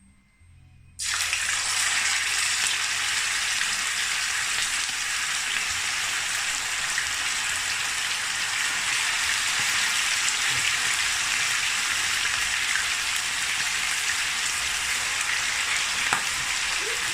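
Seasoned chicken pieces frying in hot oil in a pot: a loud, steady sizzle that starts suddenly about a second in.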